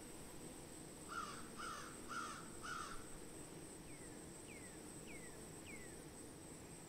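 Birds calling: four harsh calls about half a second apart, then four short whistled notes that slide downward, over a steady high-pitched drone.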